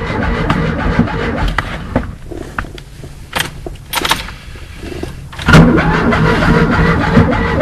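Fiat 126's air-cooled two-cylinder engine, in a troubled cold start, runs and then falls away about two seconds in. After a few sharp clicks it comes back loudly about five and a half seconds in. The owner suspects the spark plugs or the ignition coil.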